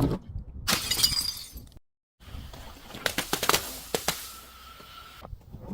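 Glass breaking: a sharp knock, then a dense shattering crash about a second in. After an abrupt cutout, a run of sharp crackling snaps as pieces crunch.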